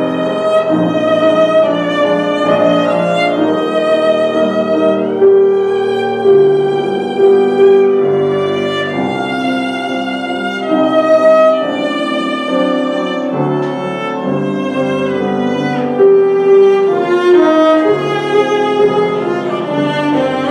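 Violin playing a melody over lower accompanying notes, with a few quick slides up in pitch.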